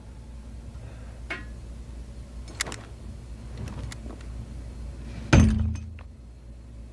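Spaceship interior sound effects: a low steady rumble with a few faint creaks and clicks, then one sudden heavy thud with a short low ring about five seconds in.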